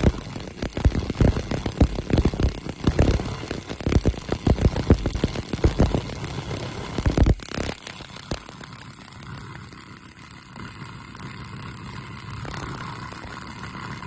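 Pulse laser cleaner crackling and snapping as its beam ablates paint off a car door, in rapid irregular cracks. It cuts off suddenly about seven seconds in, leaving a quieter steady background noise.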